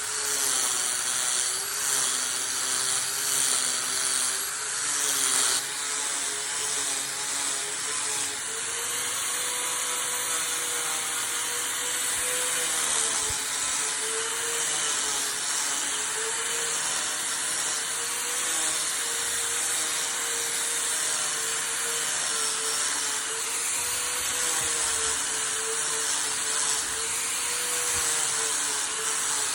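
An electric power tool running continuously on wood. Its motor whine wavers slightly in pitch as the load changes, over a steady cutting or sanding hiss.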